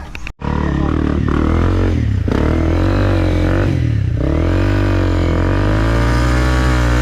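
Enduro dirt bike engine revving under load, its pitch rising and falling as the throttle is worked; it starts abruptly about half a second in.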